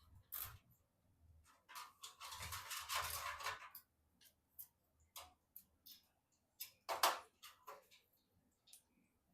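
Hands handling computer parts: scattered small clicks and taps, a scraping rustle lasting about two seconds, and a sharp click about seven seconds in.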